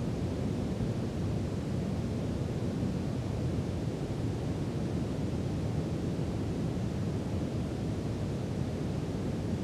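Steady brown noise: an even, deep rush with its weight in the low end and little treble.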